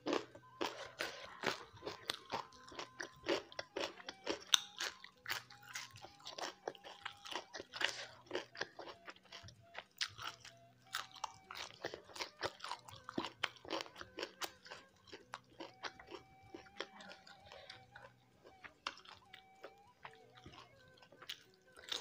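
A person chewing and crunching food close to the microphone: a steady stream of short, sharp crunches and mouth clicks.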